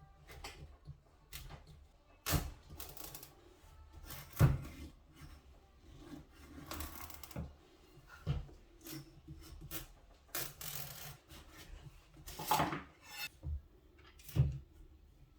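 Hands-on kitchen food preparation: scattered light knocks on a hard surface and short scraping rustles at irregular moments.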